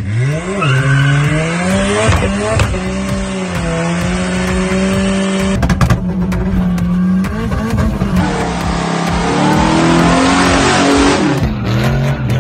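Car engines at high revs with tyre squeal, in quick cut clips. The engine climbs in the first second and holds high, steady revs as in a burnout. After a break around six seconds comes a dense rushing hiss, and the engine pitch settles lower near the end.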